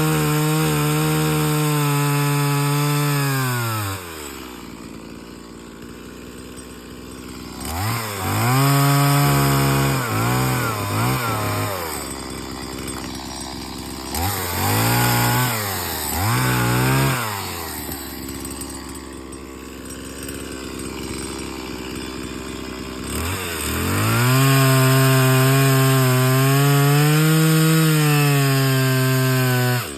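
Chainsaw running at full throttle as it cuts wood, dropping to idle about four seconds in. It is revved briefly in two pairs of blips, then held at full throttle again for the last six seconds.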